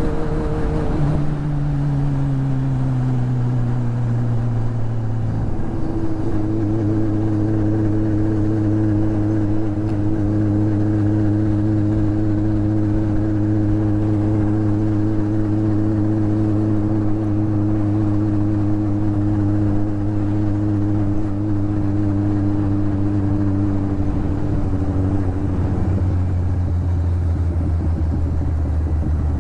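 Motorcycle engine running as the bike is ridden. Its pitch falls over the first few seconds as the bike slows, holds steady for about twenty seconds, then drops again near the end.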